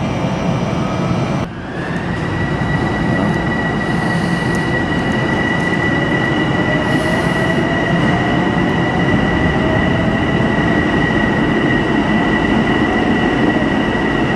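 Commuter train pulling out of the station, with a steady high whine and a fainter tone rising slowly in pitch as it gathers speed, over a constant hiss of rain.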